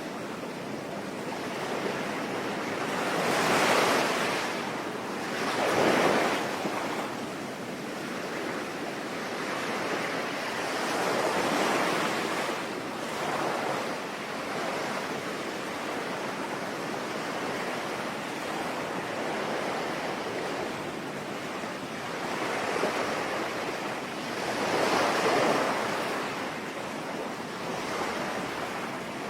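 Sea waves breaking and washing in over a steady hiss, swelling louder several times: a few seconds in, around six seconds, about twelve seconds in and again near the end.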